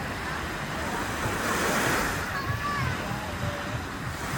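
Sea waves washing onto a beach in a steady rush, swelling as a wave breaks about halfway through, with faint voices in the background.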